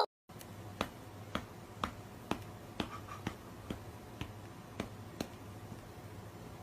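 Faint, sharp clicks at an even pace of about two a second, like a clock ticking, over a steady low hum.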